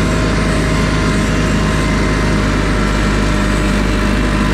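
Steiner tractor's engine running steadily under load while mowing, with its mower deck turning; a constant, even hum.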